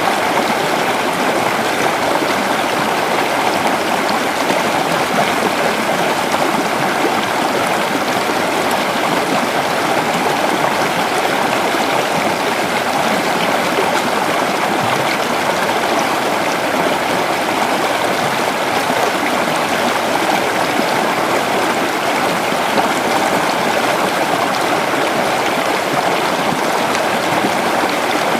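Creek water flowing steadily over stones, a constant rushing and babbling with no breaks.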